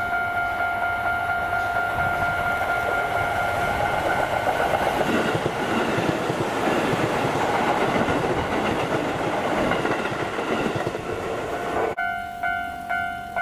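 Level-crossing warning bell ringing while a Keisei 3600-series electric train approaches and runs past close by, its rumble and wheel clatter swelling in the middle and fading near the end. After a sudden cut near the end, the crossing bell rings on its own in a clear pulse about twice a second.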